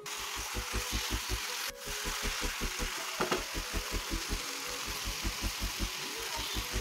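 Chicken and masala frying in a non-stick pan, a steady sizzle as it is stirred with a wooden spatula, with one sharp click a little under two seconds in. Under it runs a low, even pulse, about five beats a second.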